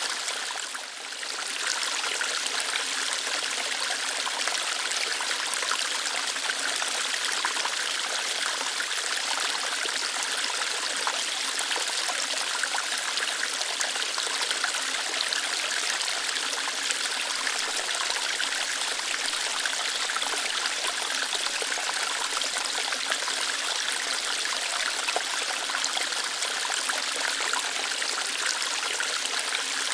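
A small waterfall, water flowing lightly over and through rocks in a steady, even rush. The level dips briefly about a second in.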